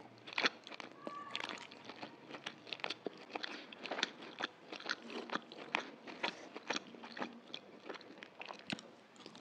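Close-up eating sounds of chicken chow mein noodles: wet chewing and many quick mouth clicks, with a noodle sucked in near the start.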